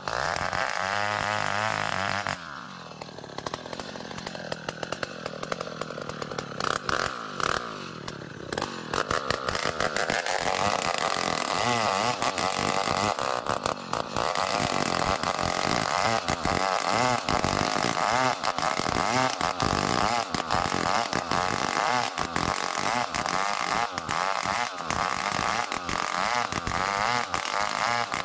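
Two-stroke chainsaw ripping a small ironwood (ulin) log lengthwise. It runs at high revs, the engine note drops about two seconds in, and it revs back up about ten seconds in to run steadily through the cut.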